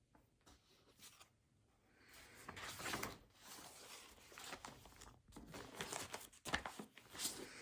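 Desk sounds of someone studying: a few light clicks, then from about two seconds in, an irregular run of rustling, scratching strokes on paper.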